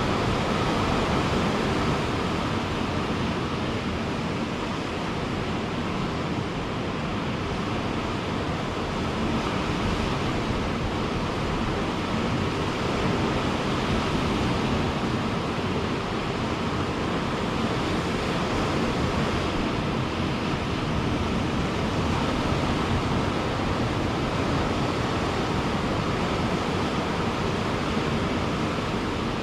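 Ocean surf breaking on a beach, a steady wash of waves that swells and eases gently, with some wind on the microphone.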